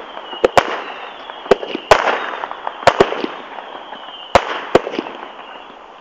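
Fireworks going off: a string of sharp bangs, several in quick pairs about a tenth of a second apart, over continuous crackling, with a faint high whistle drifting slowly down in pitch.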